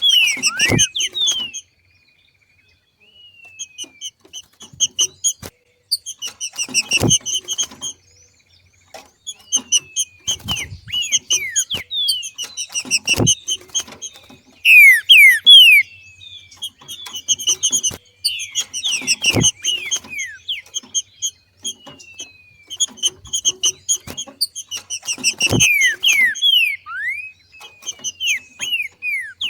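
Green-winged saltator (trinca-ferro) giving its 'macheado' call: bouts of rapid chattering notes mixed with short descending slurred whistles, the breeding-season call that keepers use to stir caged males into song. A sharp low knock comes about every six seconds.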